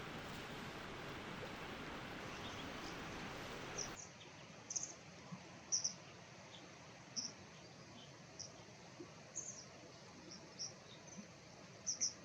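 Mountain stream rushing steadily, then after about four seconds a cut to fainter water noise with a small bird giving a string of short, sharp high calls at irregular intervals.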